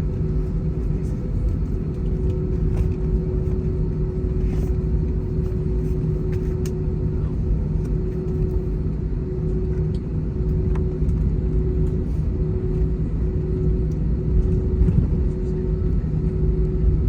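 Airliner cabin noise: the jet engines running steadily, heard from inside the cabin as a low rumble with a constant hum.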